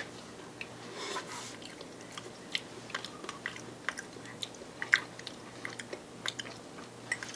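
Biting and chewing an untoasted frosted Pop-Tart toaster pastry: faint, scattered small crisp clicks, the strongest about five seconds in.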